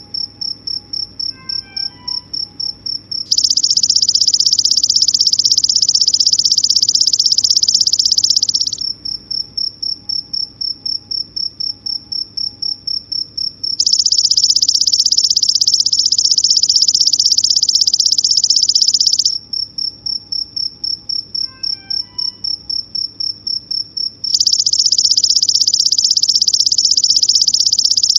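Insect song in a regular cycle: a high pulsed trill of about four pulses a second for about five seconds, then a dense continuous buzz for about five seconds, repeating. A few faint bird chirps come in near the start and again about 22 seconds in.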